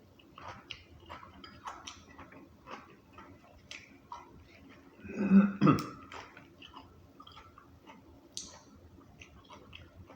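Close-up chewing: a person eating a chicken sandwich, with irregular wet clicks and crunches. About halfway through there is a brief, louder, low sound from the mouth or throat.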